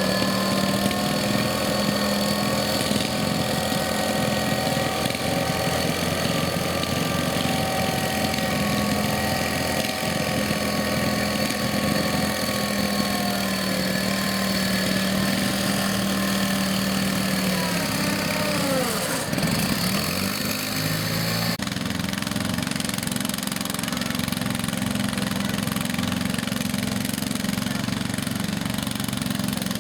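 Garden tractor engines running steadily. About two-thirds of the way through, one engine's pitch falls away as it slows, then the sound changes abruptly and carries on steady.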